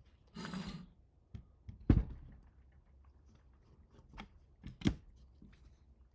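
Hands assembling 3D printer parts: a brief scraping rustle in the first second, a solid knock about two seconds in, a sharp click near five seconds, and lighter taps and clicks in between.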